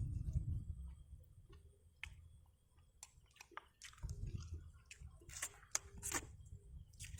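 A person eating: chewing, with wet mouth smacks and short sharp clicks at irregular intervals.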